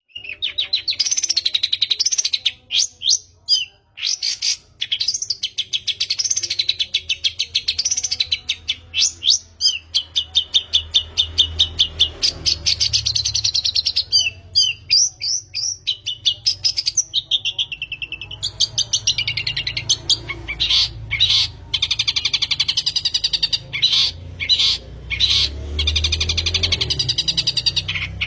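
Long-tailed shrike (cendet) singing a fast, nearly unbroken song of rapid chips, trills and swooping notes, with a few short pauses.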